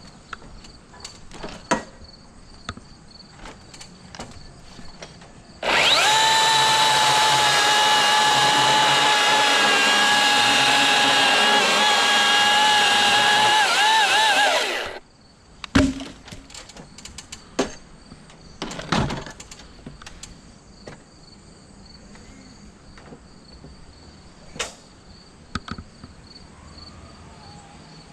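A steady, high motor whine starts abruptly, holds an even pitch for about nine seconds, wavers briefly and cuts off. A few sharp knocks follow.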